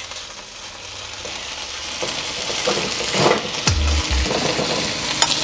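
Sliced chicken breast sizzling in hot oil in a wok over medium-high heat, the sizzle growing steadily louder, with a few dull knocks about halfway through.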